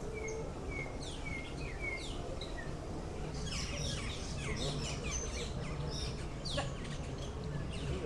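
Many small birds chirping and calling in a walk-through aviary, short falling chirps overlapping, growing busier about halfway through.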